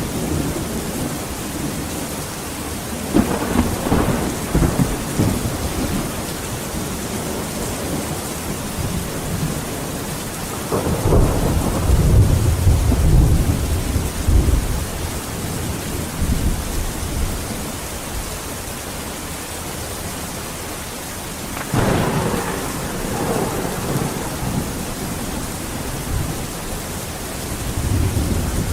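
Steady rain with rolls of thunder: low rumbles swell and fade several times, the longest and heaviest about eleven to fifteen seconds in.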